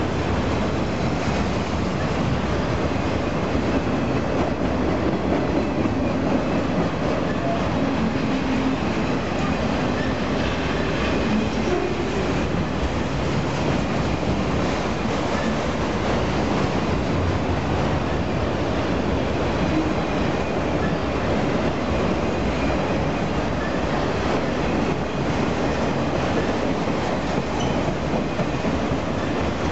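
Autorack freight cars rolling past close by: a steady, unbroken rumble of steel wheels on the rails.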